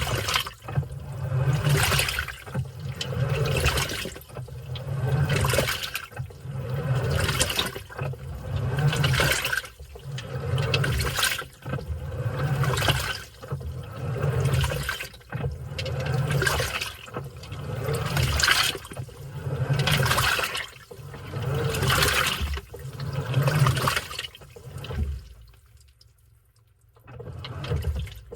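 Washing machine agitating its load: surges of sloshing water with a low motor hum, about one every second and a half to two seconds, with a brief pause near the end before the agitation starts again.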